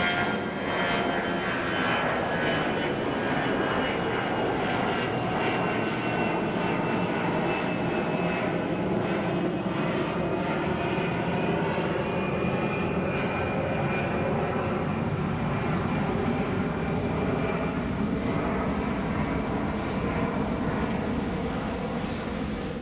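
Airbus A320 airliner's jet engines running loud and steady, with whining tones that slowly fall in pitch.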